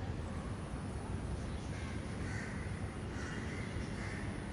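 Myna calling: a series of short, harsh calls, about one or two a second, starting about a second and a half in, over a steady low background rumble.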